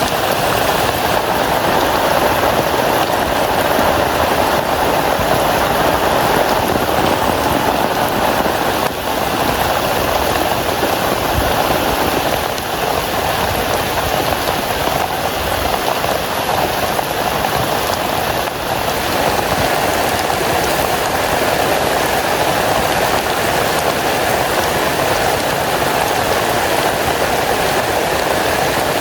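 Heavy rain falling steadily on a tent, a dense, even hiss with no let-up.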